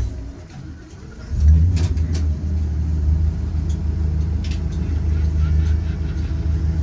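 Blue Bird Vision school bus on the move: a loud, steady low rumble comes in about a second and a half in, with a few clicks and rattles over it.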